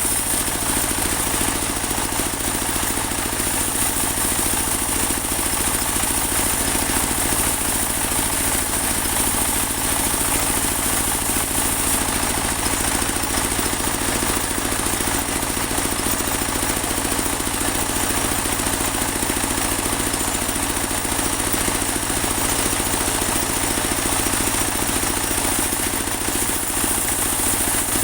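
Portable band sawmill running steadily, its engine holding an even speed with a constant high hiss from the saw, with no pauses or changes in pitch.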